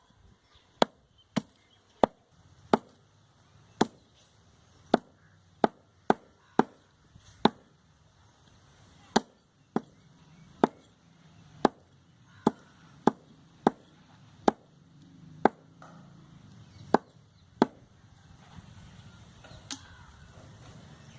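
Butcher's cleaver chopping goat meat, about twenty sharp separate strikes at an uneven pace of roughly one a second. The strikes thin out near the end.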